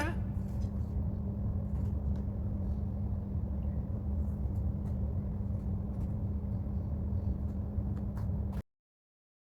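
Steady low hum and rumble with a few faint ticks, cutting off suddenly near the end.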